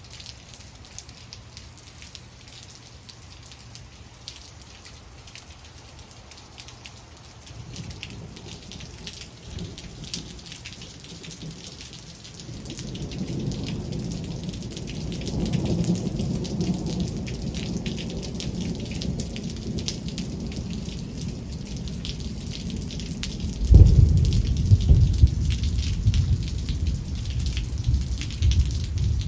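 Steady rain with thunder from a cloud-to-ground lightning strike: a low rumble builds from about eight seconds in and swells, then a sudden loud crash of thunder comes near the end.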